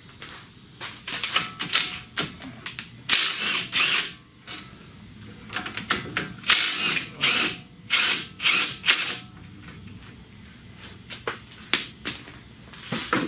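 Metal hand tools clicking and clattering in irregular bursts, with a few scattered clicks near the end.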